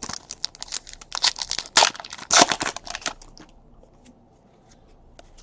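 Plastic trading-card pack wrapper crinkling and crackling as it is opened and handled, a quick flurry of sharp crinkles that dies away after about three seconds.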